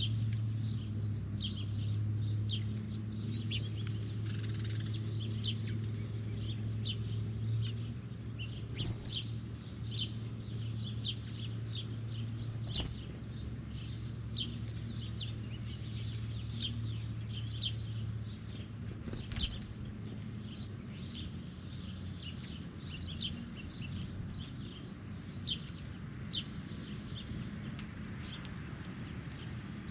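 Birds calling with many short, sharp chirps, several a second, over a steady low hum that fades out about two-thirds of the way through.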